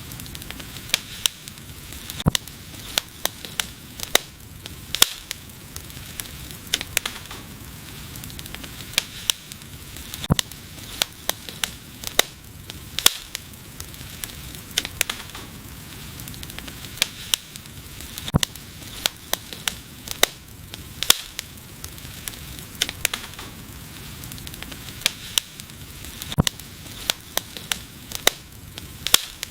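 Wood fire burning, with frequent sharp, irregular crackles and pops over a soft steady hiss.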